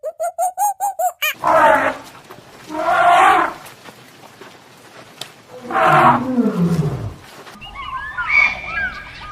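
A quick run of short squeaky calls that cuts off about a second in, then a large animal roaring three times. The last roar is long and falls steeply in pitch. Near the end, birds chirp.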